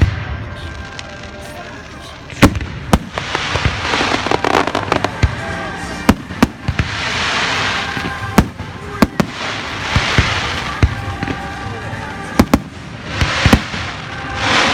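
Fireworks display: a string of sharp bangs from exploding shells, with several longer bursts of hiss lasting about a second each.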